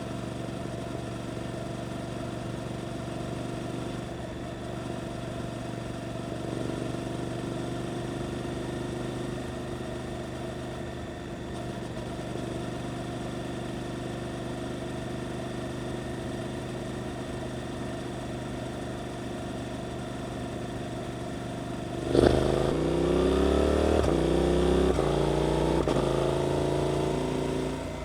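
Suzuki GSX-8S parallel-twin engine through an Arrow exhaust, running steadily at low revs, then about 22 seconds in opening up hard and accelerating through a few gears, the pitch rising again after each shift, before easing off near the end.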